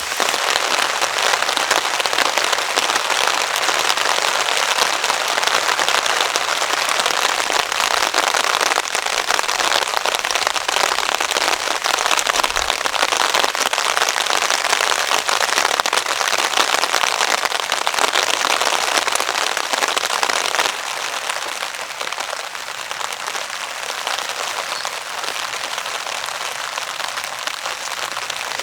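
Heavy rain falling on a tarp: a dense, steady patter of countless drops, easing a little about two-thirds of the way through.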